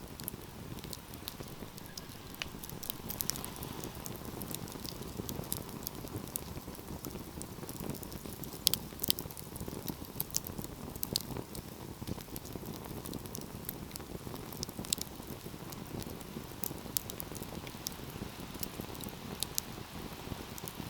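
Wood fire crackling: a steady low rush of burning with frequent sharp snaps and pops, two louder pops about nine seconds in.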